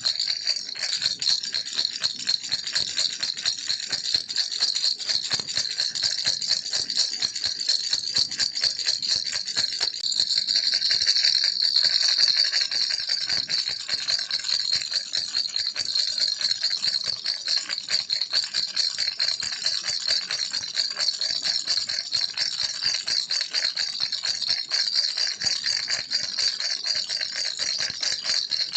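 Baby rattle toy shaken without a break: a dense, fast, high-pitched rattling, a little louder about ten to thirteen seconds in.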